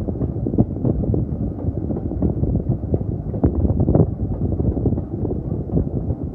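Wind buffeting the microphone over a steady low rumble, with frequent irregular knocks and rattles.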